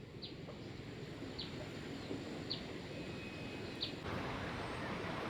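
A bird chirps with short, high notes about once a second over steady outdoor background noise. The noise grows louder about four seconds in.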